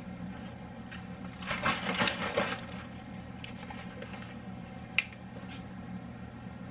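Funnel and containers being handled while refilling apple cider vinegar: a short clattering rustle about a second and a half in and one sharp click near five seconds, over a steady low hum.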